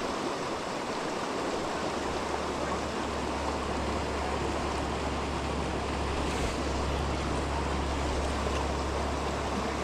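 Creek water rushing steadily over a shallow bed, an even hiss with no breaks. A steady low rumble joins it about two seconds in.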